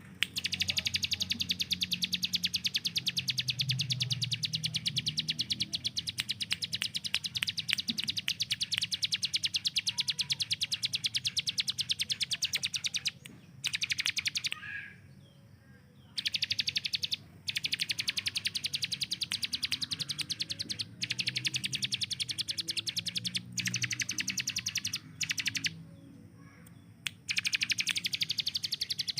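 Ciblek gunung, a prinia, singing its rapid-fire 'tembakan' song: long runs of sharp notes repeated many times a second, like machine-gun fire, broken by two short pauses. A faint low hum runs underneath.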